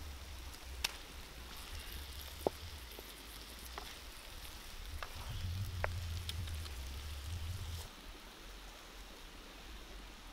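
Tomatoes and red chillies sizzling in a pan over a fire: an even, rain-like hiss broken by a few sharp pops and crackles.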